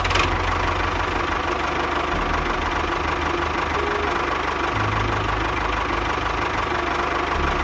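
A small engine idling steadily with a fast, even knocking pulse, typical of the motor of a homemade mini tractor.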